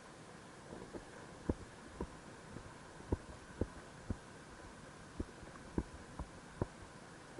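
Faint, irregular soft pops, roughly one or two a second, over a steady low hiss and hum.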